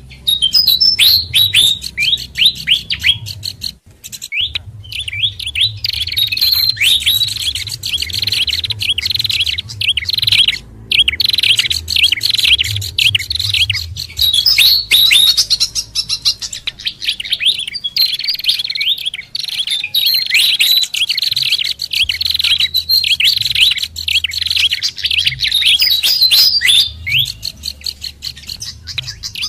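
Dense, rapid chirping and short calls of small songbirds from a bird-lure track that mixes fantail flycatcher, babbler and red-headed prinia calls, broken by two brief dropouts about four and eleven seconds in. A low hum runs underneath.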